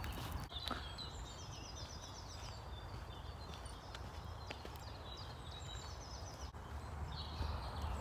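Woodland songbirds singing short, quick phrases of high notes every few seconds, over a few light footsteps on a dirt path and a steady low rumble.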